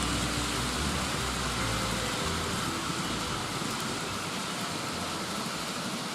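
GREENMAX Kintetsu Series 1026 N-gauge model train running on the track: a steady rolling rattle and whir, with a low motor hum that drops away about two seconds in.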